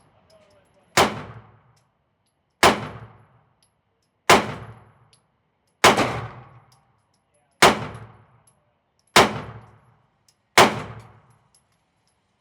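Daniel Defense H9 9mm pistol fired seven times, slow and evenly spaced about a second and a half apart. Each shot is followed by a short echoing tail.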